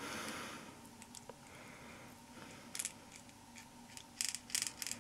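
Loose steel balls in the windows of a Simson M500 gearbox shaft clicking and rattling as the draw key is worked by hand without grease: a soft scrape at first, then a quick run of clicks near the end. The balls have a lot of play in their windows, which is suspected as the cause of the engine's clattering noise.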